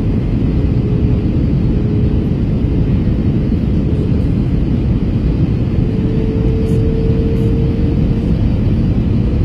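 Steady low roar of jet engines and airflow heard inside the cabin of an Airbus A321 in flight on approach, with a faint steady hum running through it.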